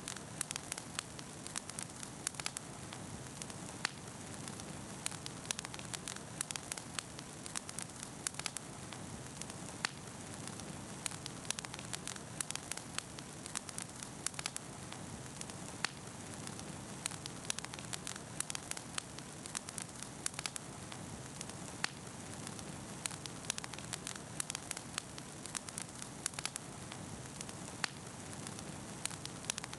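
Campfire burning, with frequent sharp crackles and pops over a steady hiss.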